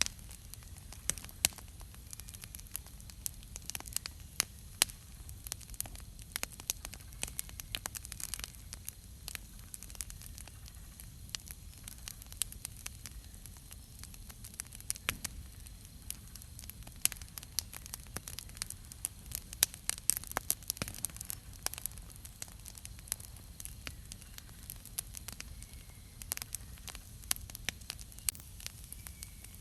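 Wood campfire crackling: irregular sharp pops and snaps over a steady low hiss of burning.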